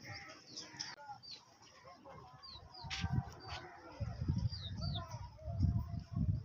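Small birds chirping: short, falling chirps repeated every half second or so. There is a sharp click about three seconds in, and low muffled bursts of sound in the second half.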